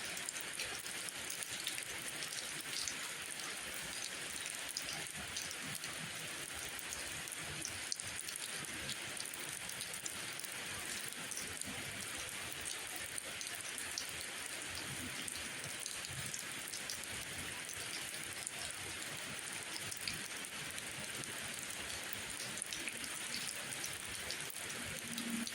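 Steady rainfall: an even hiss of rain on surfaces, dotted with many small sharp drop ticks.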